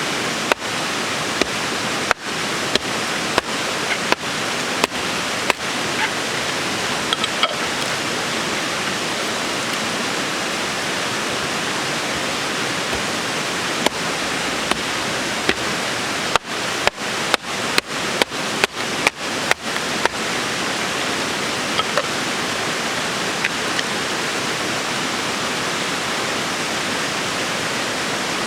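Mountain stream rushing steadily over rocks. The even water noise is broken by two runs of brief clicking dropouts, one near the start and one around the middle.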